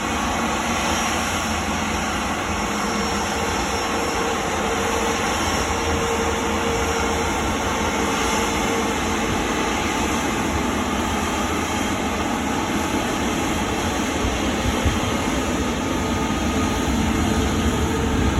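Jet airliner engines running steadily: an even rushing rumble with a faint steady whine, unchanging throughout.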